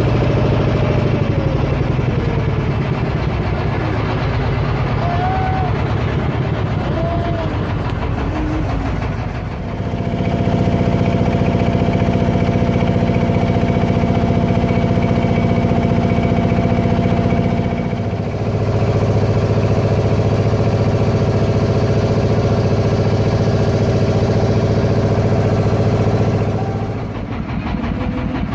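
Klotok river boat's engine running steadily, its hum changing abruptly about a third and two thirds of the way through.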